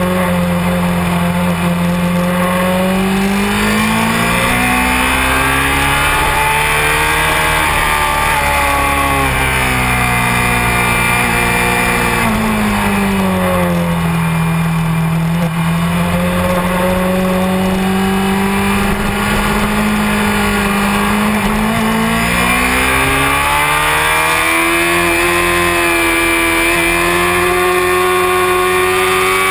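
Honda CBR600F4i motorcycle's inline-four engine running hard at track speed. Its note climbs slowly over several seconds, falls back, holds, then climbs again as the bike accelerates and slows through the circuit.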